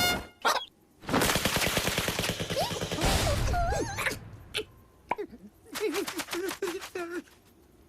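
Cartoon sound effects: a loud, fast rattling clatter for about three seconds, ending in a few gliding tones, followed by wavering squeaky cartoon-character vocal sounds and scattered clicks.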